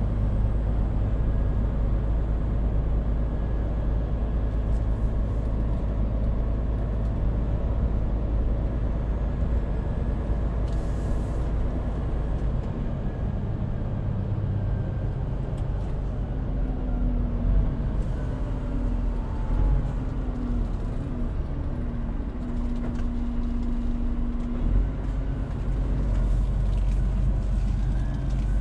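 Scania truck's diesel engine running steadily while driving, with road noise. The low engine hum drops back about twelve seconds in.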